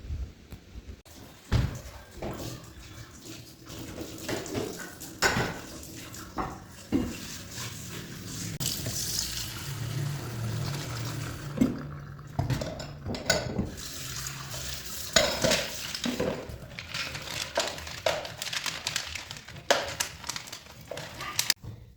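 Irregular clatter and knocks of hard objects, such as dishes or utensils being handled, with water running for a while in the middle.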